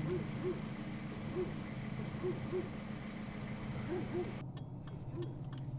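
Car engine idling steadily, a low hum. About four and a half seconds in, the sound cuts to a quieter hum with faint irregular ticking.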